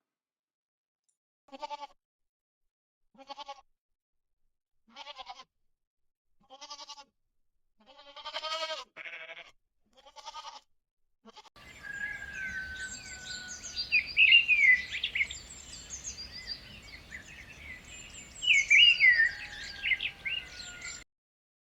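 A goat bleating six times in short, quavering calls spaced a second or two apart. About halfway through this gives way to a different recording of rapid high bird chirps over a background hiss, which stops abruptly near the end.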